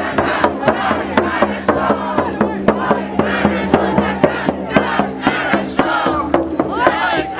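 Many voices singing and shouting together over a quick, steady drum beat.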